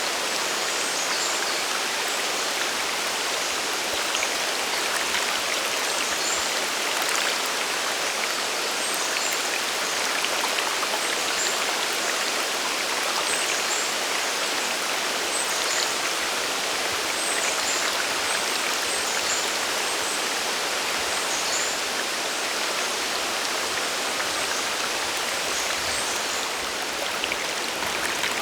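Sagiri Falls' water rushing steadily as it falls and runs down the river, an even hiss with no let-up. Faint high chirps come through now and then.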